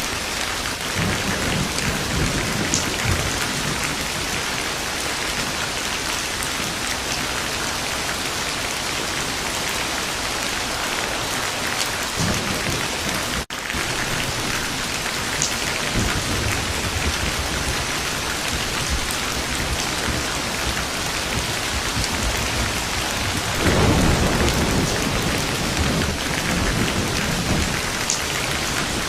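Steady heavy rain with thunder rumbling several times; the loudest, longest roll comes about two-thirds of the way through. The sound drops out for an instant near the middle.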